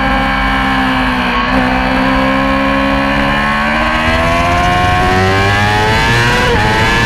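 Yamaha R6 inline-four race bike engine at high revs, its pitch easing a little and then climbing steadily under acceleration, with a quick drop near the end as it shifts up a gear.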